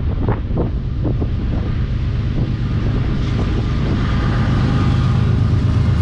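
Approaching freight train's lead diesel-electric locomotives, a GE ES40DC and a CW44AC, running with a low rumble that grows steadily louder, with wind buffeting the microphone in the first second or so.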